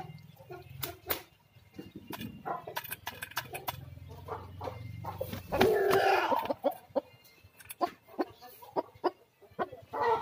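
Aseel chickens clucking amid scattered sharp clicks, with one loud, pitched call of about a second from a bird around the middle. A low steady hum underneath stops shortly before that call.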